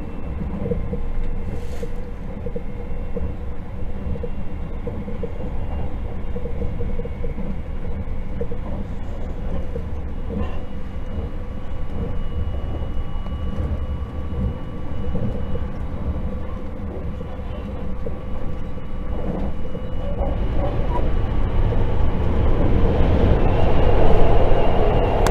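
Running noise of a JR 681 / 683 series limited-express electric train at speed, heard from inside the passenger car: a steady rumble of wheels on rail with faint steady whines above it, growing louder over the last few seconds.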